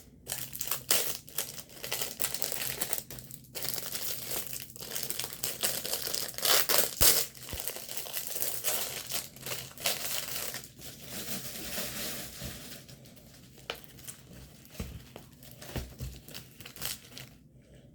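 Plastic packaging of a diamond painting kit crinkling and rustling as it is handled and opened, in irregular spurts, loudest about six to seven seconds in.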